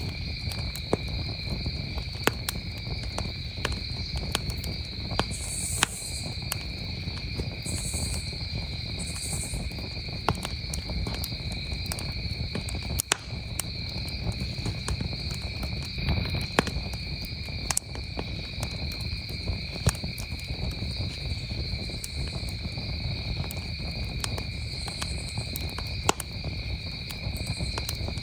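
Wood campfire crackling, with sharp pops at irregular moments, over a low steady rumble of the fire. Behind it, crickets trill in a steady unbroken chorus.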